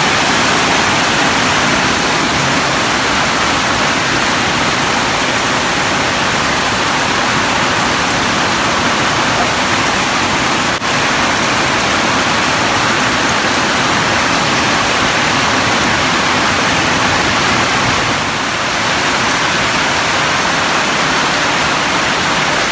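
Heavy storm rain pouring down in a steady, loud hiss, with one brief click about halfway through.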